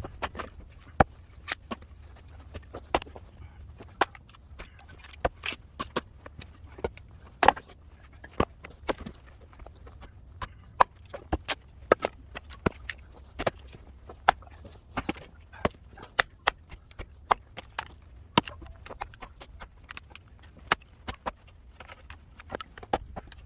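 Cedar firewood being split: a long run of sharp wooden knocks at an uneven pace, often two or three a second, some much harder than others.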